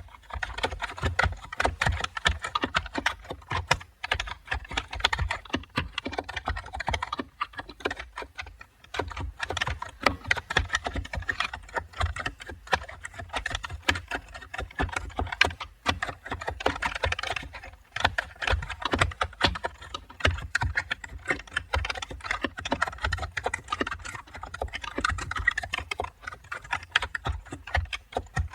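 Continuous typing on a computer keyboard: a fast, dense patter of key clicks, with a few brief lulls.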